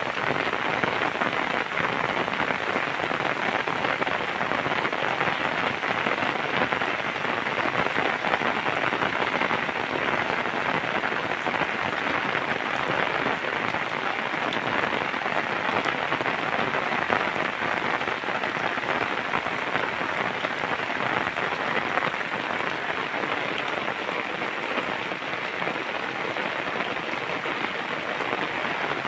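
Steady heavy rain falling, a dense even hiss of drops with fine patters throughout.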